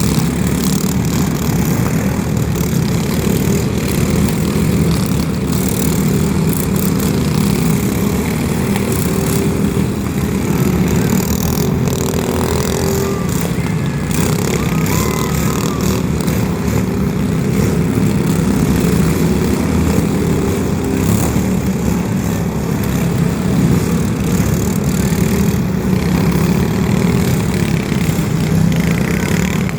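Steady, loud mechanical rumble of heavy vehicle noise, with scattered clicks and no break.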